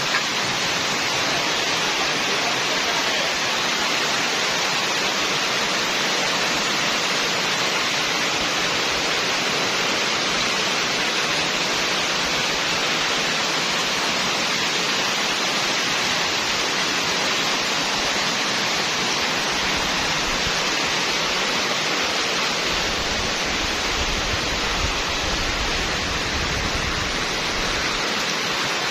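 Heavy rain pouring down in a steady, dense hiss. A low rumble of wind buffeting the microphone comes in about two-thirds of the way through.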